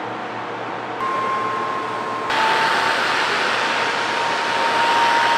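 A small electric motor or fan running with a steady whine. It gets louder in two steps, about a second in and again about two seconds in, and at the second step the whine drops slightly in pitch.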